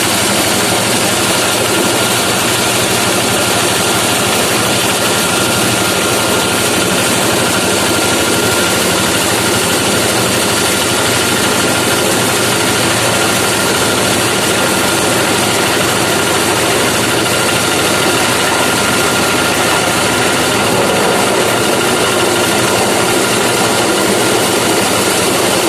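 Corn-grinding mill running steadily and loudly, a continuous machine noise with a steady whine.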